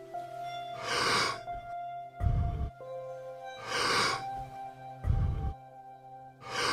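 Deep, rhythmic Wim Hof power breathing: a hissing breath in followed by a short, low puff of breath out, repeating about every three seconds. A soft sustained music drone plays underneath.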